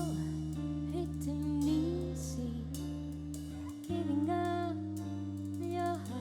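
Live band music: sustained low chords with a melodic lead line gliding over them, the harmony changing about four seconds in.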